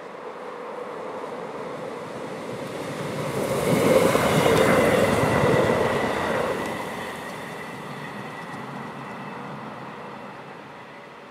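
DB class 628 diesel multiple unit passing close by: it grows louder as it approaches, is loudest from about four to six seconds in, then fades as it runs away.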